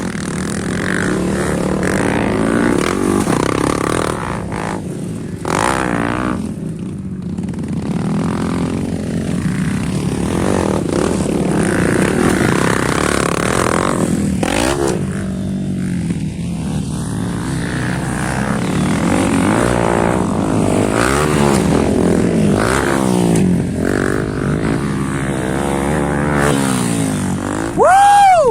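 Motocross dirt bikes running on a track, engines revving up and dropping back as they accelerate and shift, with several bikes overlapping. A loud, brief falling whine comes just before the end.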